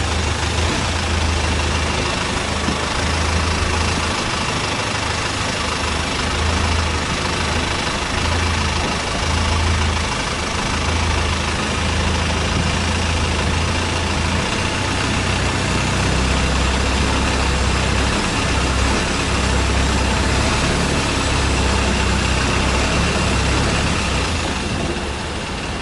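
An engine running steadily under a constant hiss, easing off slightly near the end.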